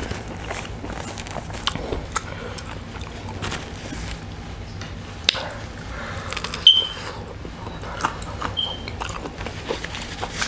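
Close-up biting and chewing of air-fried fried chicken, the crisp breading crackling in quick, irregular crunches, with a louder crunch about five seconds in. Two brief high whistles come near seven and nine seconds.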